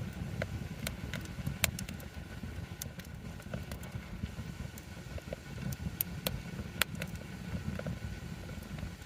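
Wood campfire burning, with irregular sharp crackles and pops from the burning wood, two of them louder, about a second and a half in and near seven seconds. A steady low rumble runs underneath.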